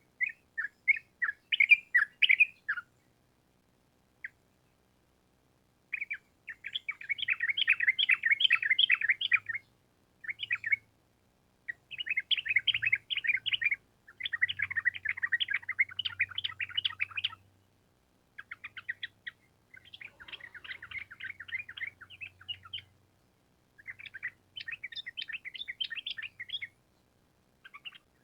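Yellow-vented bulbul (trucuk) singing its long, rapid chattering song in repeated phrases of one to four seconds with short gaps between them. A faint low hum sits under some of the louder phrases.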